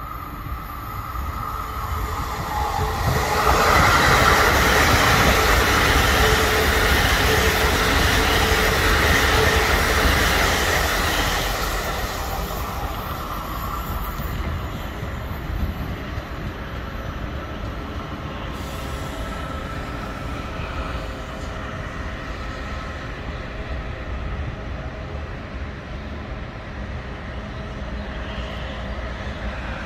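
ICE high-speed electric trains passing: a loud rush of wheels on rail and air swells about three seconds in and eases after about twelve seconds. A steadier, quieter rolling rumble follows as the carriages keep going by.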